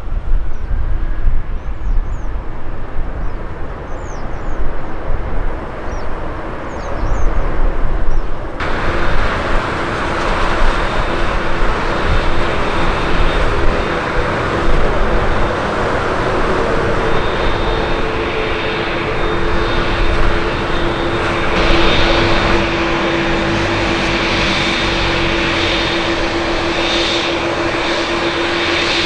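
Jet airliner engines. About a third of the way in the sound jumps suddenly to a loud, steady rush of engine noise with a few held whining tones.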